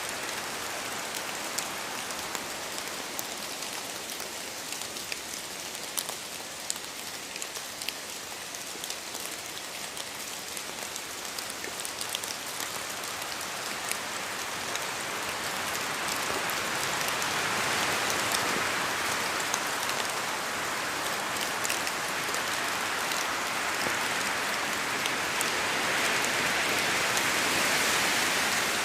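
Steady rain falling in a forest, with many sharp individual drops ticking among the rush. The rush swells louder in the second half, once around the middle and again near the end.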